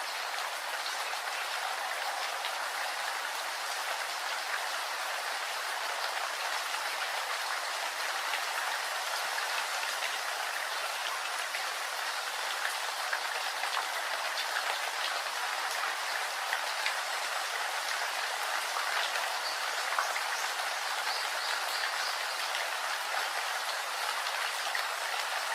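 Steady rain falling: a dense, even hiss with scattered light drop ticks.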